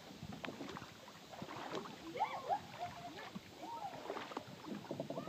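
Faint, distant voices of people talking and calling out, with a few light knocks scattered through.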